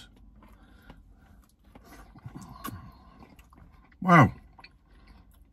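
A man chewing a mouthful of spicy fried chicken burger, with soft wet mouth clicks and a brief low "mm" about halfway through. Near the end he says "Wow".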